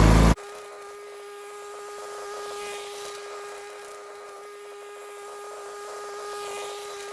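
Garden tractor engine heard from a distance, a steady thin hum that swells and fades gently twice as the tractor goes round the garden tilling. It follows a sudden cut from the same engine running loud and close.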